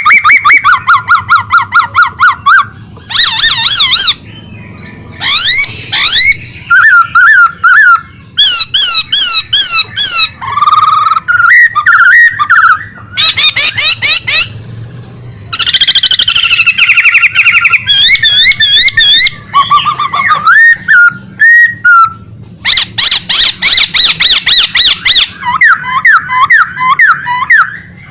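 A pet songbird singing vigorously and without pause: loud, varied phrases of fast repeated notes, trills and sweeping whistles, broken by short gaps.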